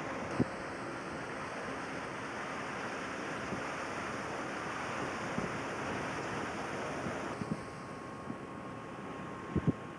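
Steady rush of wind and water noise from a boat under way on open water. A few short knocks come through it, with two sharp ones close together near the end.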